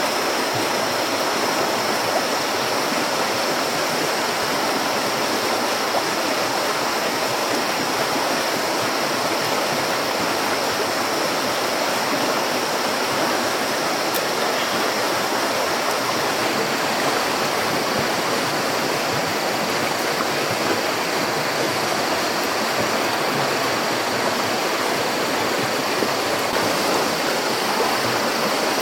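Steady rushing water noise with no breaks, with a continuous thin high whine over it that shifts slightly about halfway through.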